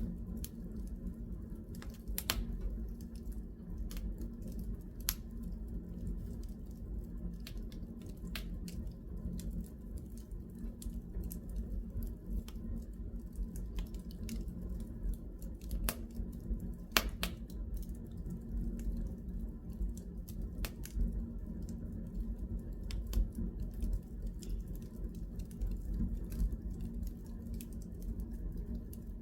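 Wood fire crackling in a fireplace: scattered sharp pops and snaps at irregular intervals, the loudest about seventeen seconds in, over a steady low hum.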